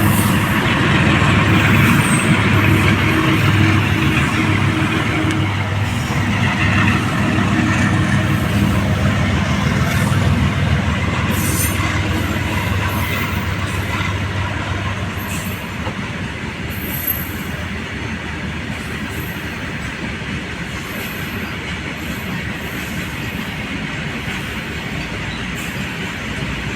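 A goods train passing. A steady pitched hum, likely from the locomotive, fades out over the first fifteen seconds or so, leaving the continuous rolling rumble of the wagons on the rails.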